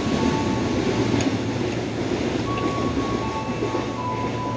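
Freight train of flat wagons loaded with tank containers rolling past. A steady rumble of wheels on rail carries thin high squealing tones that come and go, and it eases off slightly as the last wagons go by near the end.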